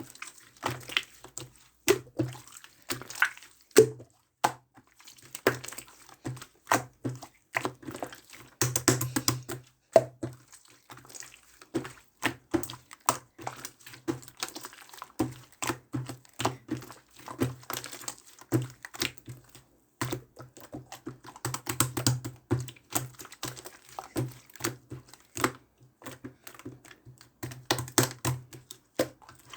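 Blue slime being squeezed, pressed and stretched by hand, making dense, irregular clicking and popping sounds.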